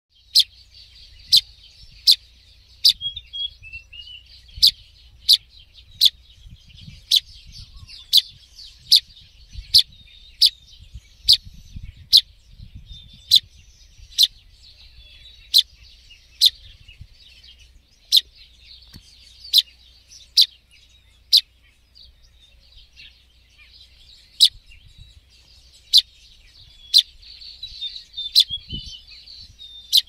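A fledgling songbird calling: sharp, very short high chirps repeated about once a second, with a pause of a few seconds past the two-thirds mark. Fainter twittering of other birds runs behind.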